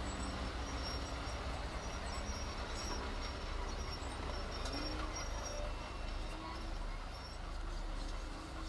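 Heavy diesel earthmoving machinery running steadily: a continuous low engine rumble with a few faint higher tones over it.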